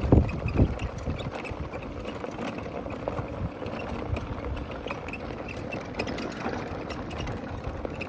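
Steady running noise of a small ride-on vehicle moving along a track, with a few low thumps in the first second.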